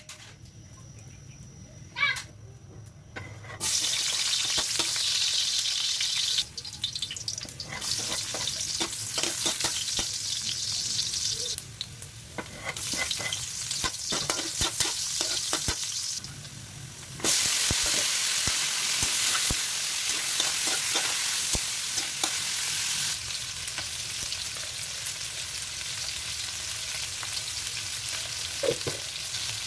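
Chicken feet sizzling in hot oil in a pan, with scattered clicks. The sizzle starts about three and a half seconds in and drops away briefly three times.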